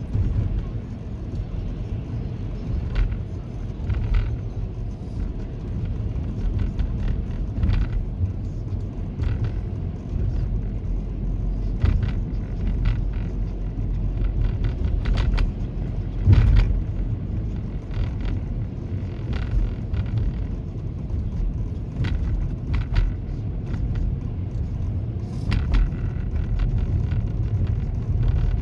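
Steady low rumble of a moving vehicle's road and engine noise, with scattered short knocks and clicks.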